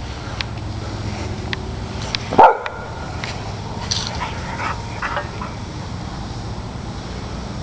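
A dog barks once, loudly, about two and a half seconds in, then gives a few quieter yelps and whines, over a steady low rumble.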